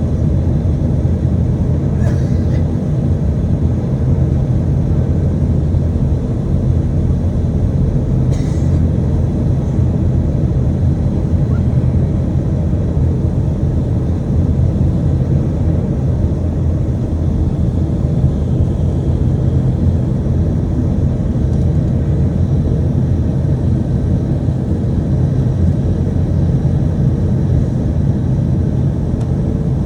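Steady cabin rumble of an Airbus A320 heard from a seat near the wing: engine and airflow noise, with two faint clicks a few seconds apart.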